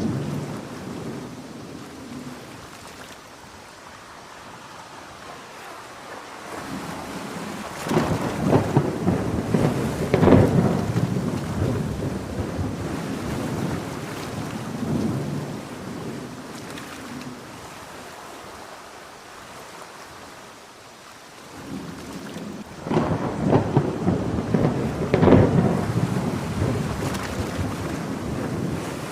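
Thunderstorm ambience: steady heavy rain with two long rolls of thunder, one about eight seconds in and another about twenty-three seconds in, each swelling loud and rumbling away slowly.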